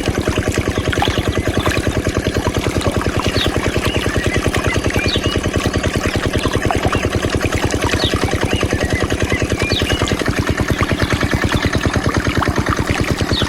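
Mini diesel engine driving a water pump, running steadily with an even, rapid knocking pulse.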